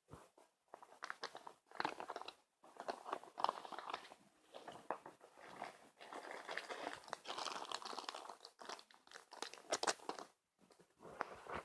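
Close handling noise: irregular rustling and crinkling with sharp clicks and short pauses, as of packaging or a product being handled near the microphone.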